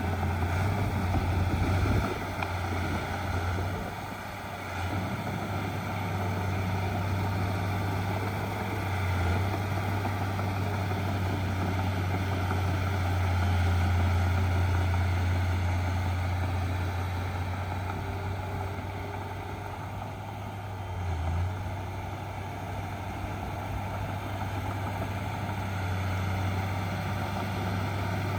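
Heavy diesel engine of earth-moving machinery running steadily under work, a low drone that dips briefly a few times.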